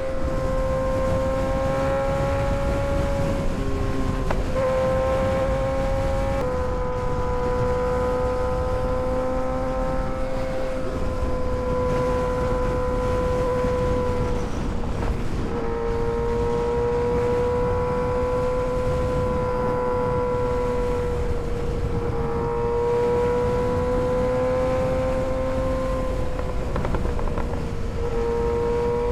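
Kawasaki ZX-6R 636 inline-four sport bike riding at a steady cruise, the engine running as a continuous droning tone that dips slightly in pitch every few seconds, over a low rush of road and wind noise.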